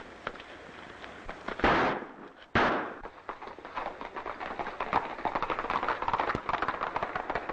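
Two gunshots about a second apart, each trailing off, followed by a quick clatter of galloping hoofbeats, from a western film soundtrack.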